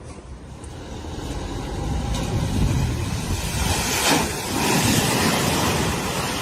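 A vehicle driving past through floodwater, the rush of pushed water and engine noise swelling to a peak in the middle and then fading.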